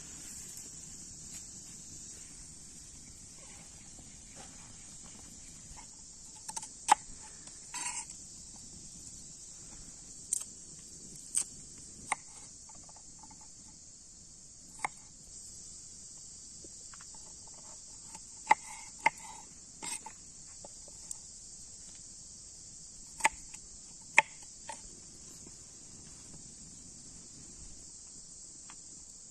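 Steady high-pitched chorus of crickets, with about a dozen short, sharp knocks and clicks scattered through it.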